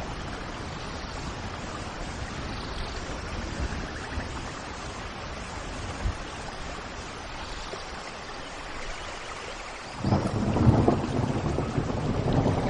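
Steady rain falling, then a loud roll of thunder breaks in about ten seconds in and keeps rumbling.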